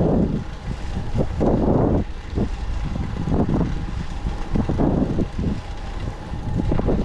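Wind buffeting a camera microphone on a moving bicycle: a low rushing rumble that rises and falls unevenly, with a faint steady tone underneath.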